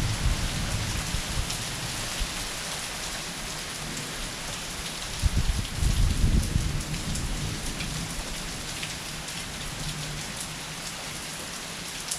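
Heavy rain falling steadily, a dense hiss of drops with scattered sharper ticks. A low rumble swells about five seconds in and fades over the next two seconds.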